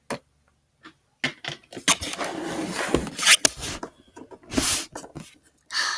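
Small plastic toy figures and props being handled and set down by hand: scattered clicks and taps, with a longer rustle about two seconds in.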